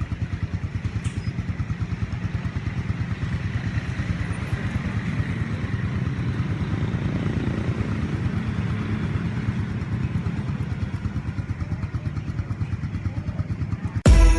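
Motorcycle engine running steadily at a fast, even pulse, heard while riding along.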